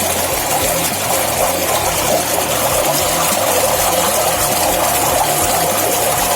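Water rushing steadily with a machine running, as when water is pumped out of a drainage well. A faint steady whine joins about three seconds in.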